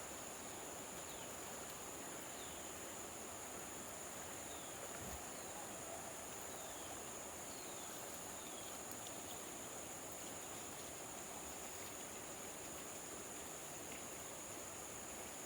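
Steady rush of a flash-flooded river, with insects trilling steadily at a high pitch and a few short, falling bird chirps scattered through it. There is a soft low bump about five seconds in.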